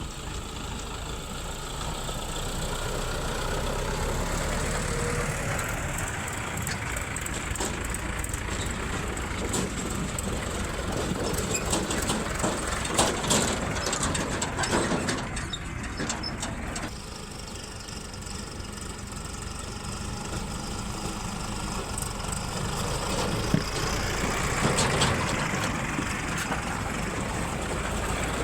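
Diesel engines of a backhoe loader and tractor running steadily during mud loading, with a run of knocks and clatters about halfway through. The sound changes abruptly a little past the middle.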